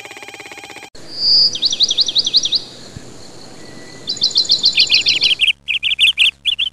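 Bird calls: a single high whistled note, then fast trills of repeated downward-sweeping chirps, about seven a second, coming in several bursts with short pauses between them.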